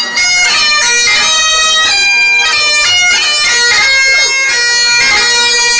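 Two sets of bagpipes playing a tune together over their steady drones, cutting off abruptly at the end of the tune.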